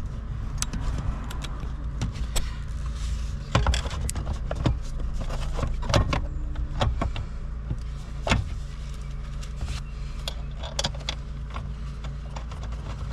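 Scattered clicks, taps and clatter of tools and parts being handled during work on a car's interior, over a steady low hum.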